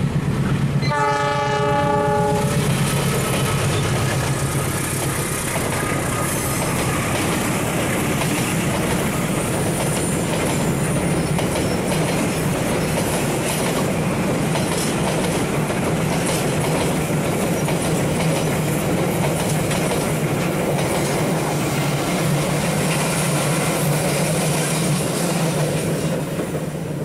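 Diesel-hauled passenger train horn sounding one blast about a second in, then the train passing close by: a steady engine drone with the rumble and clickety-clack of wheels over the rail joints.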